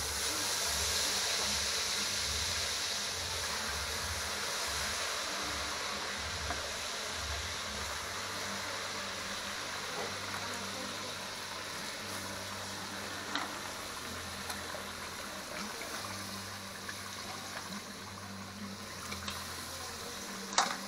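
Seasoned chicken pieces sizzling in hot oil with burnt curry powder as they are added to the pot, a steady hiss that slowly eases. A few soft clicks come as more pieces go in, with a sharper one near the end.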